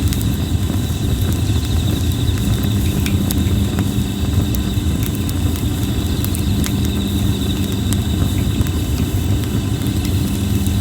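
Plum-wood campfire crackling with scattered sharp pops over a steady low rumble, while insects trill steadily in a high, pulsing chorus.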